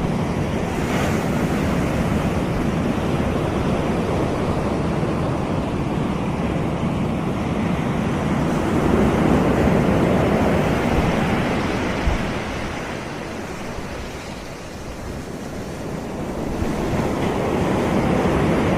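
Ocean surf washing on a beach, swelling and easing as waves come in: louder around the middle, a quieter lull, then building again near the end. Wind rumbles on the microphone underneath.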